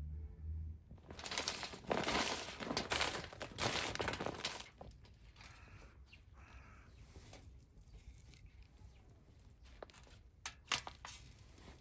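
Rustling and crinkling handling noise, loud for about four seconds from a second in, then fainter, with a few sharp clicks near the end.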